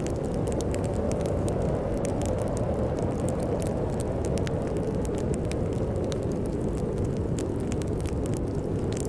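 Wood fire crackling in a fireplace, with irregular sharp pops and snaps, over a steady low rumble of storm wind.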